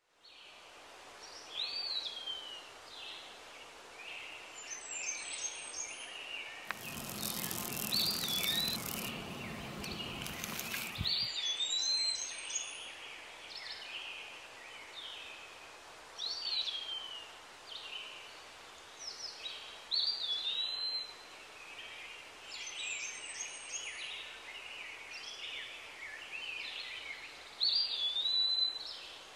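Several wild birds singing, with a repeated slurred whistle every few seconds among many higher chirps. About seven seconds in, a loud rushing noise runs for about four seconds and then stops suddenly.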